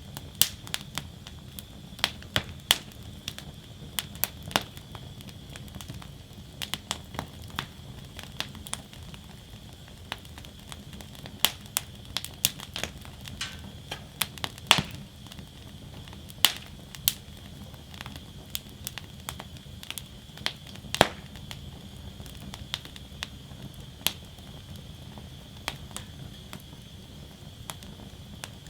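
Wood fire burning in a metal fire basket: irregular sharp crackles and pops, a few much louder than the rest, over a steady low rush of flame.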